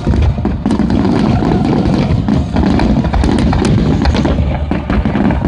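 Fireworks display: many aerial shells bursting in quick succession, dense overlapping booms with sharp cracks throughout.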